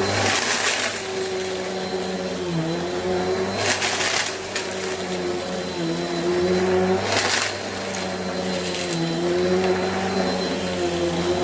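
Bissell vacuum cleaner running steadily, its motor hum dipping slightly in pitch every few seconds as it works, with three louder rushes of hissing air.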